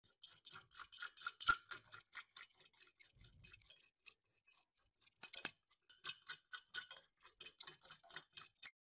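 Light metal-on-metal clicks and short scrapes from hand work on a rusty antique meat grinder's parts, coming irregularly about three or four a second. They pause for about a second halfway, and there are two sharper knocks, one early and one about halfway.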